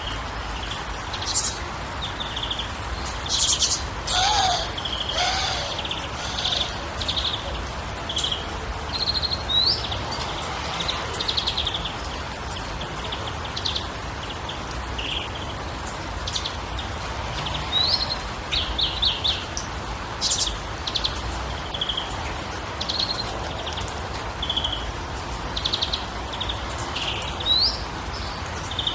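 Several songbirds chirping and calling, with many short high chirps and a few quick rising whistles scattered throughout, and two lower calls about four to five seconds in, over a steady low background rumble.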